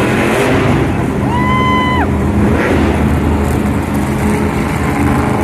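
Monster truck engine running loud and steady, with a single held tone of about a second, sliding in and falling away, about a second and a half in.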